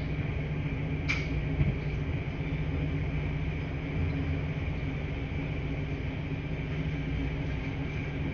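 Washing machines running with a steady low hum, and a single short click about a second in.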